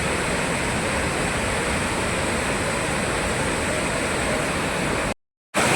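Steady rushing roar of a monsoon-fed waterfall. It cuts out completely for about half a second near the end, then resumes.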